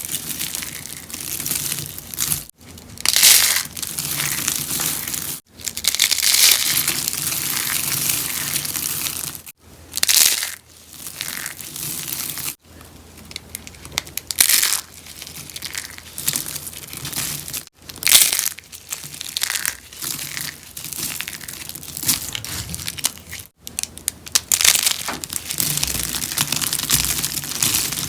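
Rose soap being crunched, a dry, crackling crumbling noise in bursts of a few seconds, broken by several abrupt brief silences.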